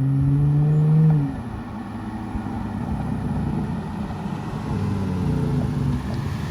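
Straight-piped Dodge Charger GT 3.6-litre V6 with dual-in/dual-out Super 10 mufflers, under hard acceleration at the end of a 0-60 launch-control pull. About a second in the throttle is lifted and the steady high engine note falls away to a rougher, lower exhaust rumble as the car slows.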